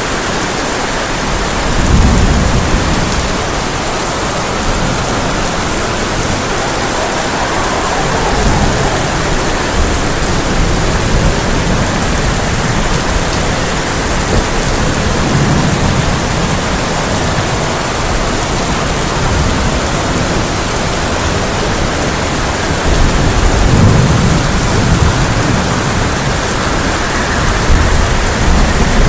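Heavy rain drumming steadily on a tin roof, with low rolls of thunder rumbling in several times.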